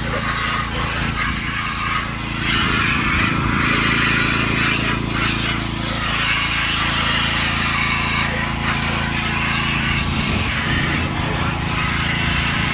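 A small engine running steadily under loud, rough scraping and rubbing noise, with a few sharp knocks scattered through it, during gutter cleaning.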